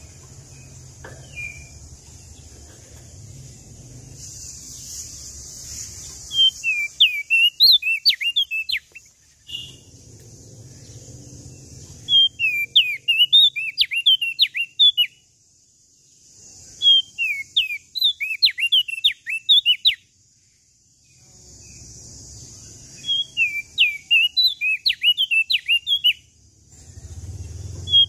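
A prenjak daun Lombok songbird sings in four bursts of 2–3 s each. Each burst is a fast run of high, sharply slurred chirps, and the bursts are separated by short pauses, with a steady hiss and a faint low rumble behind them.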